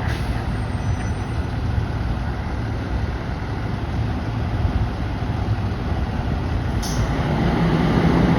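Fire engine's engine running with a steady low rumble, with one brief sharp click about seven seconds in and the engine note rising near the end.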